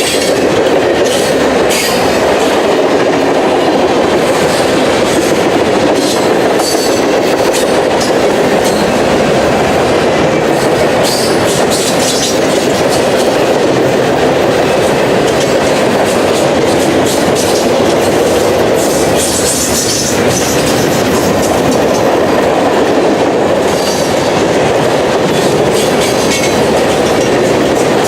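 Freight train cars rolling steadily past at trackside: a continuous wheel-on-rail rumble with clicks over the rail joints and brief high squeals from the wheels.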